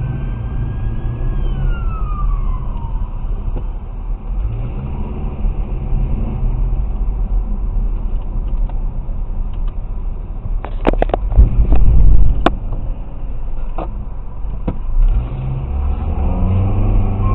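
Car road noise and engine rumble recorded by a dashcam, with a tone falling in pitch a couple of seconds in, and a cluster of sharp knocks and bangs about two-thirds of the way through.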